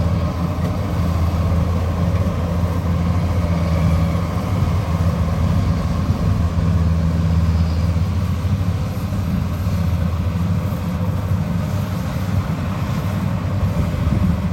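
Kubota rice combine harvester's diesel engine running steadily at a constant pitch.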